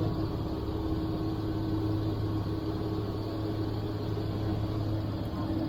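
A vehicle engine idling steadily, a continuous low hum with an even, unchanging pitch.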